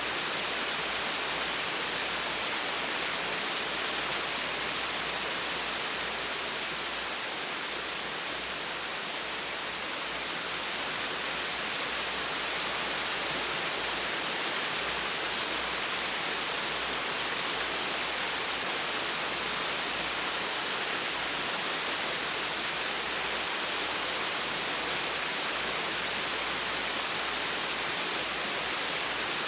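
Small waterfall splashing steadily, an even rushing hiss of falling water with no breaks.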